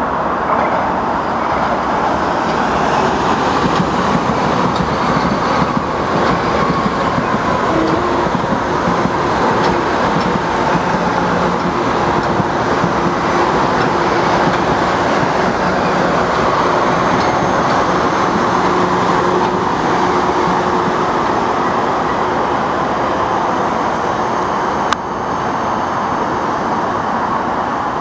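Metro-North commuter train running through the station, a steady dense wheel-and-rail noise with faint steady tones underneath. A sharp click comes about 25 seconds in, and the level drops a little at that moment.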